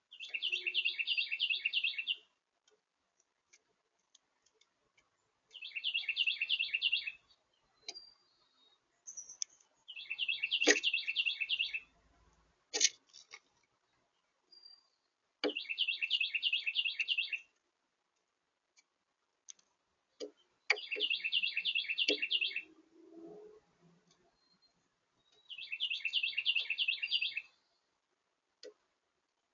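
A songbird singing the same rapid trilled phrase, about two seconds long, roughly every five seconds, with a few sharp clicks between the phrases.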